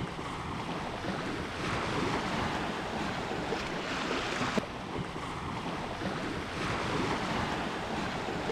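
Ocean surf washing onto the beach, swelling and fading every few seconds, with some wind on the microphone.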